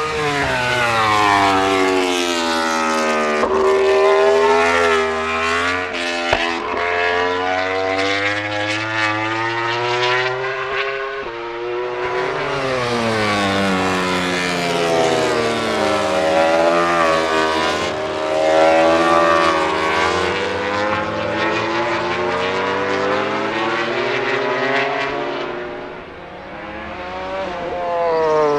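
MotoGP prototype racing motorcycles running at speed on the track, engine pitch falling and rising several times as they pass, brake and shift gears, with a few short sharp cracks between.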